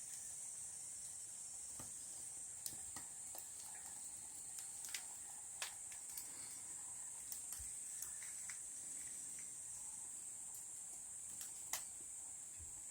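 Insects trilling steadily in a high, unbroken band, with scattered sharp pops and crackles from firewood burning in a campfire stand. The loudest crackle comes near the end.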